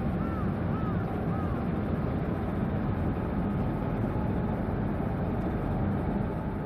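Steady low rumble of a large car ferry under way, with wind on the microphone. Four short chirps, each rising then falling, come in the first second and a half.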